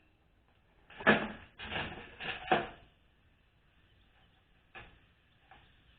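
Transmission parts being handled on a workbench: a quick run of four knocks and clatters about a second in, then two faint clicks near the end.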